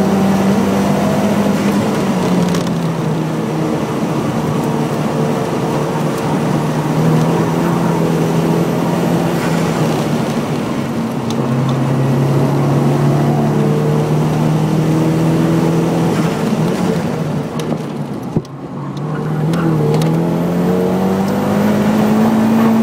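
Nissan 180SX's turbocharged SR20DET four-cylinder engine pulling hard around a racetrack, heard from inside the car. Its pitch steps down a few times through the lap. Near the end it goes quiet for a moment, then the revs climb steadily as the car accelerates again.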